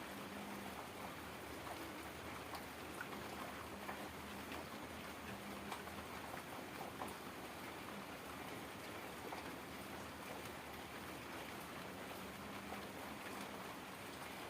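Heavy rain falling steadily, a dense even hiss flecked with the ticks of individual drops hitting a surface. A faint low hum comes and goes underneath.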